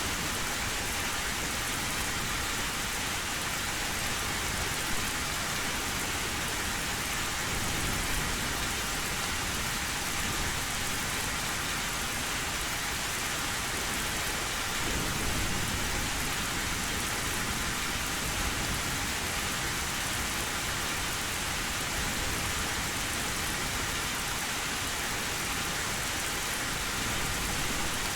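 Heavy rain drumming steadily on an old tin roof, with a low rumble of thunder about halfway through.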